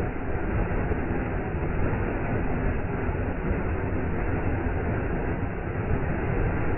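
Waterfall: a steady, unbroken rush of falling water, heaviest in the low rumble and dull at the top.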